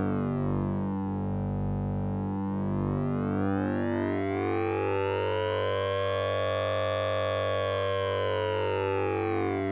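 Synthesized ring-modulated sync tone from a vocoder plugin: a steady low drone under a buzzy cluster of partials that sweeps slowly down, rises to a peak about seven seconds in, and falls again, like a slow siren.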